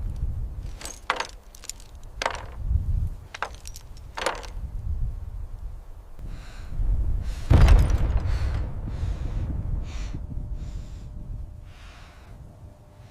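Battle sounds: a few sharp gunshot cracks over a low rumble, then one heavy explosion boom about seven and a half seconds in, whose rumble fades away.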